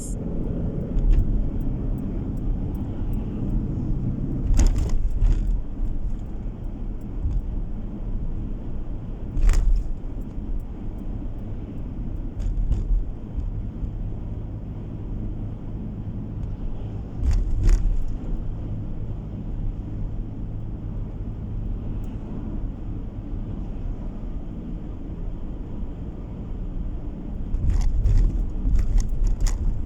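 Steady low road and engine rumble inside a moving car, with a few short louder thumps scattered through it.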